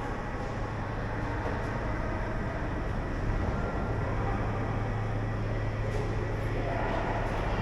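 Steady low rumble and hum of ice rink ambience during a youth hockey game.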